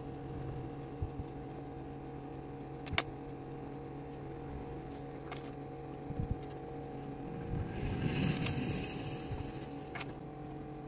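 Small parts being handled during a model build: a few sharp clicks and a rustle about eight seconds in, over a steady low hum.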